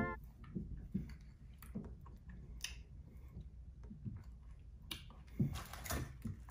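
Faint chewing of a piece of candy in the mouth, with small scattered clicks.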